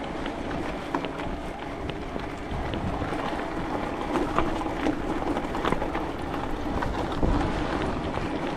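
Wind buffeting a handheld action camera's microphone while riding a bicycle, with a steady rumble of tyres on the path and scattered small clicks and rattles.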